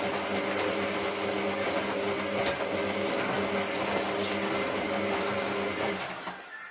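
Hotpoint 9534A washing machine running under its motor, a steady whirring hum, through a rinse stage of its synthetic 60 programme; it winds down and stops about six seconds in.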